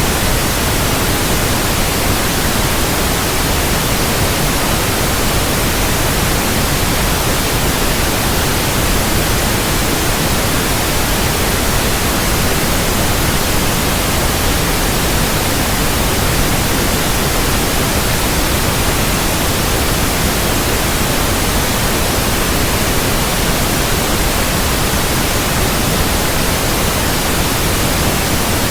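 Steady, unbroken white noise, a loud even hiss across the whole range, used as a sleep sound for infants.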